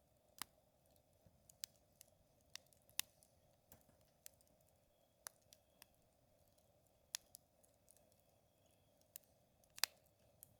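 Wood campfire crackling: irregular sharp pops and snaps from the burning wood, about a dozen in all, the loudest one near the end.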